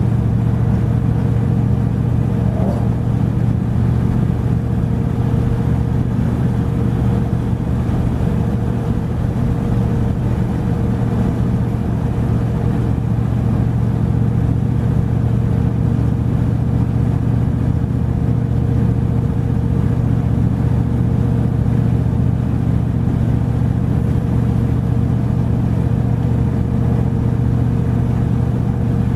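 A truck running steadily while being driven: an even, unchanging engine and road drone.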